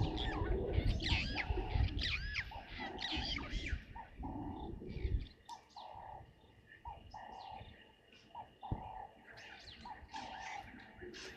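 Birds calling at a waterhole: quick, looping high chirps over a lower note that repeats about once a second. A low rumbling noise underneath stops suddenly about five seconds in.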